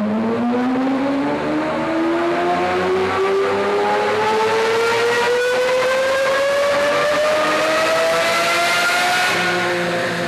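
Lamborghini Murcielago LP640's V12 with a Fabspeed X-pipe muffler-bypass exhaust pulling under load on a chassis dyno, its note rising smoothly and steadily through the revs for about nine seconds without a shift. Near the end the throttle comes off and the pitch falls.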